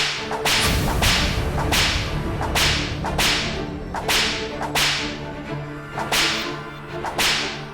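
A regular series of sharp, whip-like swishing strokes, about one every 0.8 seconds, over a steady low rumble.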